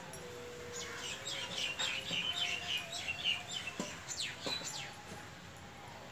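Birds chirping in a quick, busy run of short high calls for about four seconds, with a few downward-sweeping calls near the end.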